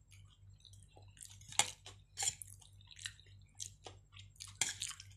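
Close-up eating sounds: wet chewing and mouth smacks on soft chicken and potato stewed in coconut milk, with a few sharper clicks, the loudest about one and a half seconds in and near the end.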